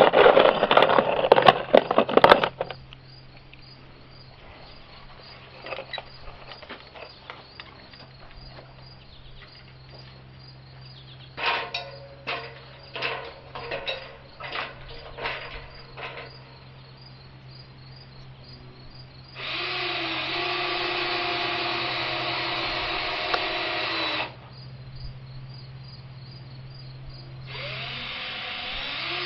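Power drill running in two stretches: a steady run of about five seconds past the middle, and another that spins up in pitch near the end. Before that come a loud clatter at the start and a quick run of sharp knocks, over a faint steady low hum.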